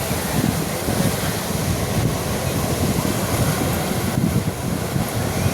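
Sea surf washing onto the beach, with wind buffeting the microphone in an uneven low rumble.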